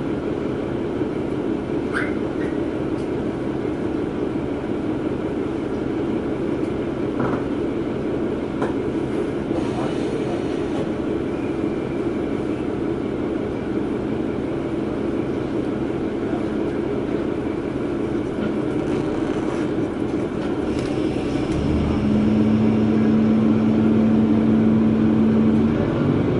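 Diesel railcar running on the line: a steady rumble of engine and wheels on the rails, with a few faint clicks. About 22 seconds in, a steady engine hum comes in and the sound gets louder.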